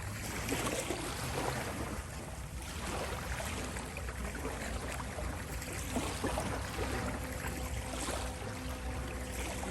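Ocean waves washing in, a steady wash of surf with small crackles of foam, with a faint steady 528 Hz tone held beneath it.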